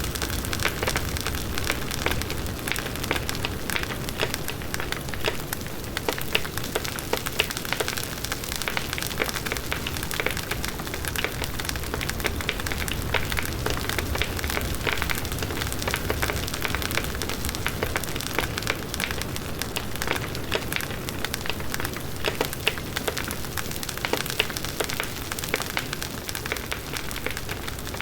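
Large wood bonfire burning: dense, continuous crackling and popping of the burning wood over the steady sound of the flames.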